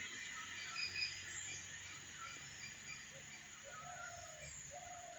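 Birds chirping: scattered short high chirps, with two longer, lower calls near the end, over a steady faint hiss.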